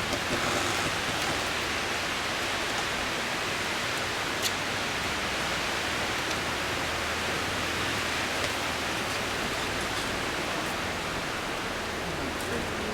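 A steady, even background hiss, with one faint click about four and a half seconds in.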